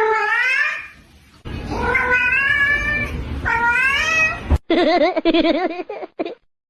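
A cat meowing: three long, drawn-out meows, then after a sudden break a wavering, warbling call.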